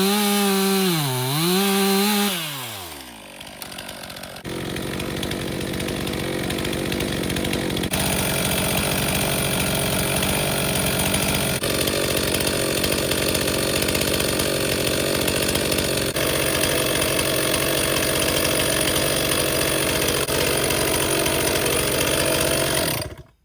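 Stihl MS362 M-Tronic two-stroke chainsaw at full throttle in a cut, its pitch dipping briefly under load about a second in, then falling away as the throttle is released. A long steady rushing noise follows, with several abrupt changes, and it cuts off suddenly just before the end. The saw is freshly repaired with a new fuel solenoid and runs and cuts well.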